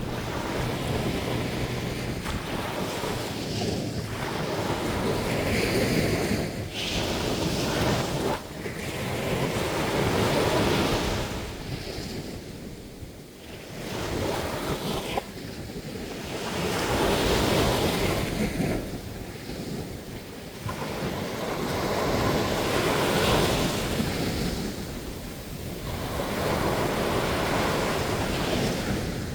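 Sea waves breaking and washing up on a sandy beach, the surf swelling and fading in slow surges every five or six seconds.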